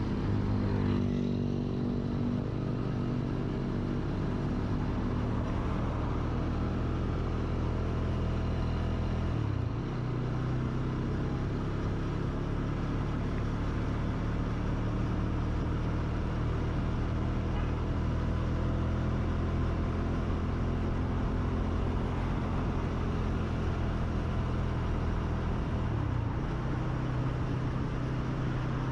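A vehicle engine running while under way, its note rising just after the start and shifting in pitch about ten seconds in and again near the end.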